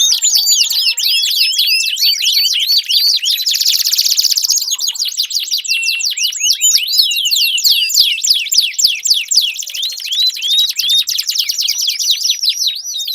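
Domestic canary singing a long, loud, unbroken song of rapid repeated rising notes, with a faster buzzing trill about three to four seconds in.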